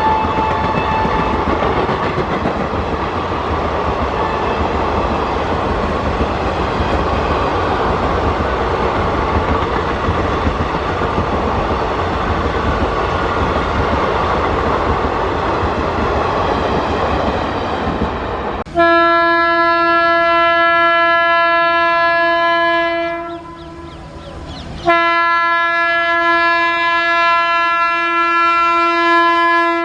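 An Indian Railways train running past on the track with a steady rush of wheel and coach noise. About two-thirds of the way in, a locomotive horn sounds a long, loud blast, breaks off for about two seconds, then sounds a second long blast.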